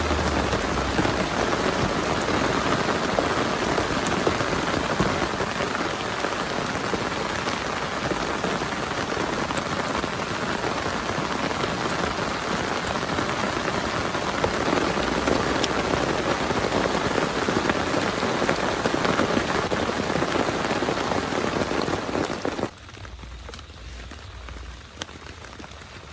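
Heavy rain falling steadily in a dense hiss, cutting off abruptly near the end to a much quieter background.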